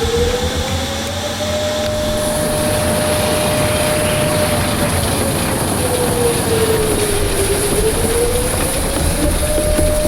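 Steady loud jet aircraft noise with a thin high whine coming in about two seconds in and a mid-pitched tone that slowly sinks and rises.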